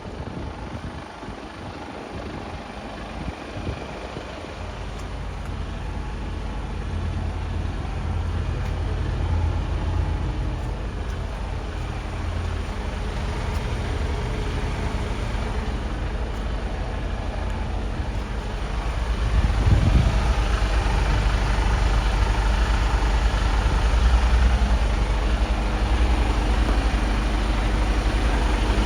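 Mercedes-Benz Actros 1842 truck's diesel engine running steadily, a low hum that grows louder and steps up again about twenty seconds in.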